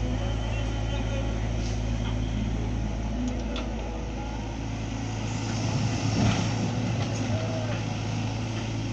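Tractor engine running with a steady low drone, with a brief louder surge about six seconds in.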